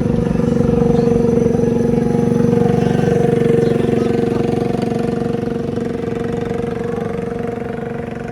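A vehicle engine running at a steady pitch, loudest in the first few seconds and slowly growing fainter.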